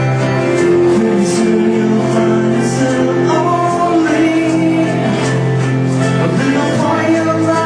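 Music: a live performance of a song, with a singing voice over held instrumental chords.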